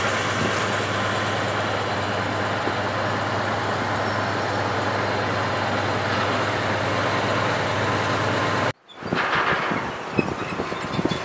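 A motor vehicle's engine running steadily at idle, a constant low drone. It cuts off abruptly near the end, and quieter outdoor noise with a few knocks follows.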